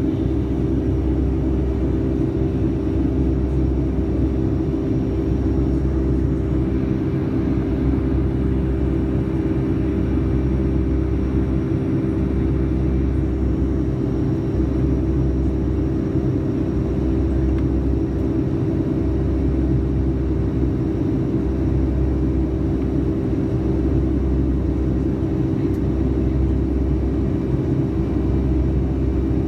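Boeing 757-200 cabin noise in flight: a steady jet-engine and airflow drone with a low hum, the deep rumble swelling and fading about every two seconds.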